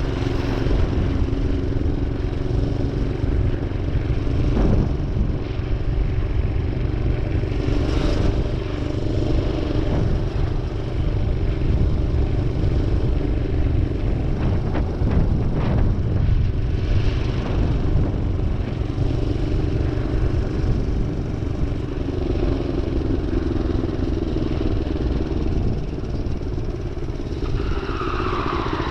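Minibike's small engine running steadily while being ridden, with a few short clatters a little past halfway.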